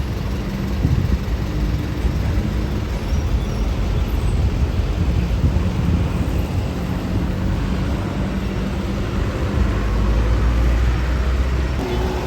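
Road traffic passing close by: the engines of large vehicles run steadily over tyre and road noise. A deeper engine rumble swells from about nine and a half seconds in.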